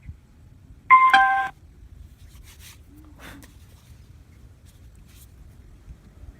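A short two-note falling chime about a second in: one steady higher note, then a lower one, about half a second in all.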